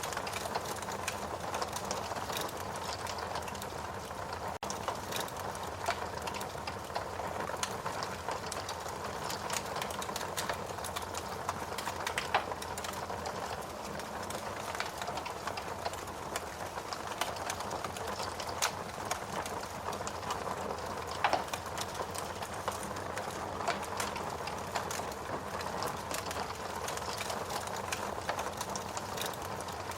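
Fire burning in a fireplace: a steady hiss with frequent irregular crackles and pops.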